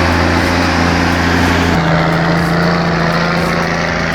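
Loaded logging truck's diesel engine running hard, with a steady low engine note whose pitch shifts about two seconds in.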